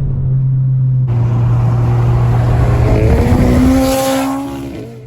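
Car engine accelerating hard, loud, its pitch rising, then dropping away about a second before the end over a steady low engine drone.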